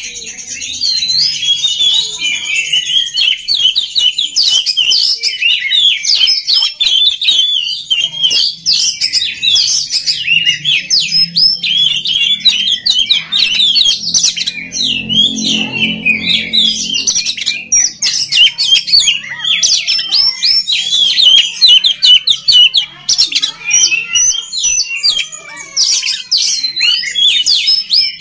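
Oriental magpie-robin (kacer) singing a loud, fast, unbroken stream of varied chirps, trills and whistles.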